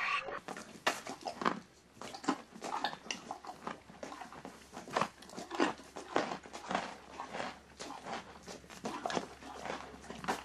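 A farm animal chewing and crunching food close by: a steady run of irregular crunches, a few each second.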